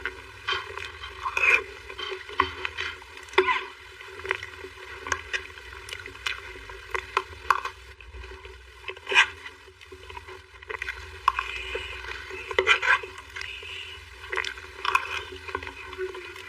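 Close-miked eating sounds of a soft dessert, likely the cherry mousse cake: wet chewing, squishing and lip smacks in irregular short clicks.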